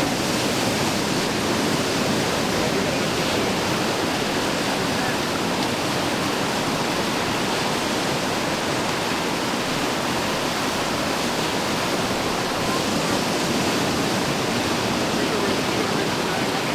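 Fast-flowing whitewater rushing steadily down an artificial whitewater course.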